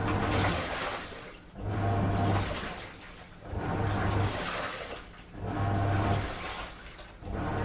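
Washing machine on a strong wash cycle, its drum turning back and forth so the water and laundry slosh in surges about every two seconds, each surge starting with a low motor hum.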